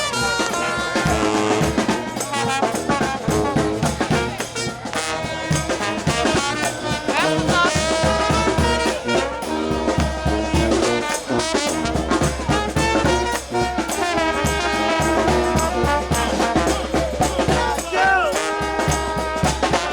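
New Orleans brass band playing at full volume: trumpets and trombones over a steady drum beat.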